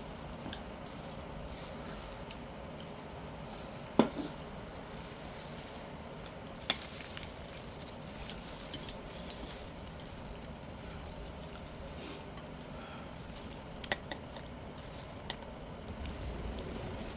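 Steady sizzling hiss with a few sharp clicks of utensils, the loudest about four seconds in.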